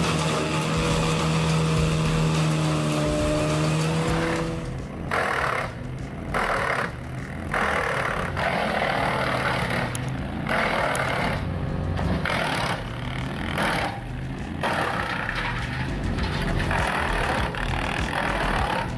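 Wood chipper running: a steady engine tone at first, then, from about five seconds in, a run of loud noisy bursts with short breaks between them as wood goes through the chipper.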